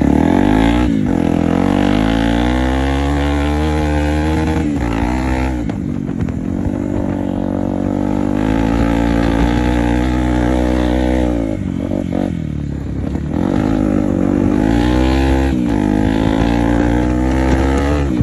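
Off-road vehicle engine revving hard. Its pitch climbs, drops sharply and climbs again about five times, as when the throttle is opened and eased off or the gears are shifted.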